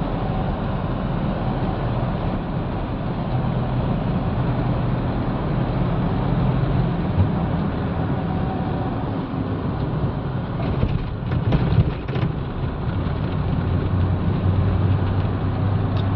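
Mahindra Bolero BS6 diesel engine running and road noise while driving, heard from inside the cabin, with a short cluster of knocks or rattles about eleven seconds in.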